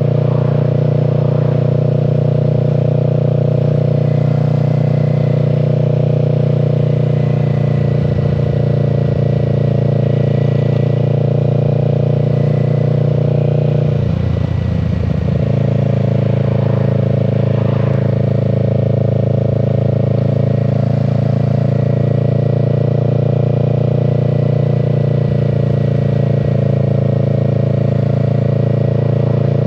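Kawasaki Z650's parallel-twin engine running at steady cruising revs under way. About halfway through, the engine note briefly breaks and dips, then settles back to a steady note.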